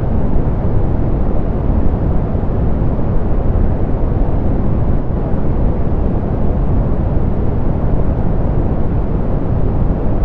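Steady synthetic pink noise, softened so that it sits mostly in the low range and sounds muffled, like a deep, even rumble. It holds level and unchanged, with no events.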